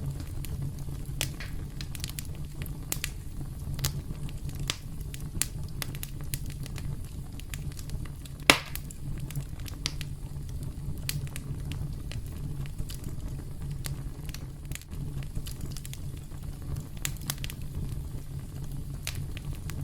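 Campfire burning with a steady low rumble and irregular crackles and pops from the wood, one sharper pop about halfway through.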